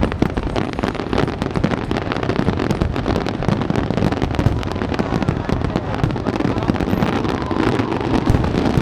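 Fireworks going off in a dense, continuous crackle of many small bursts, with no pause.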